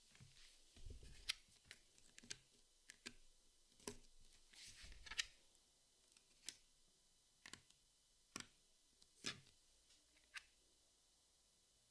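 Jigsaw puzzle pieces being handled and set down: faint, irregular light clicks and taps, with soft rustling twice.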